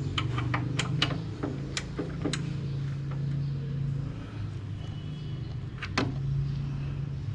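Bosch GTS 10 XC table saw running with a steady low hum. A cluster of sharp clicks and knocks comes in the first couple of seconds, and a single louder knock about six seconds in.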